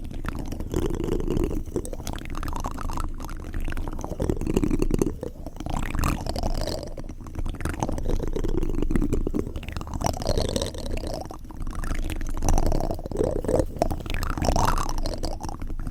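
Close-miked wet ASMR mouth sounds: continuous smacking, clicking and squishing of the lips and tongue, with many small clicks.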